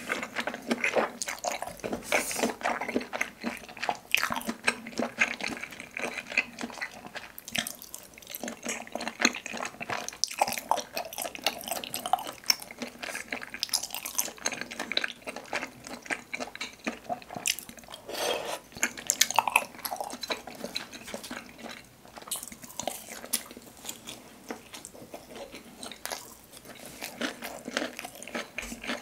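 Close-miked chewing of spicy tteokbokki, rice cakes with glass noodles in red sauce: a continuous run of short mouth clicks and smacks.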